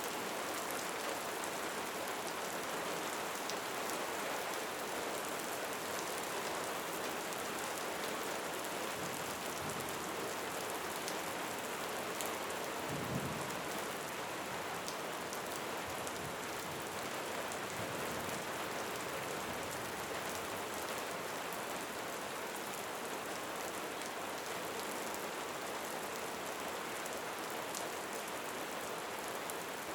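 Steady rain falling, an even hiss of many drops. A brief low rumble comes a little under halfway through.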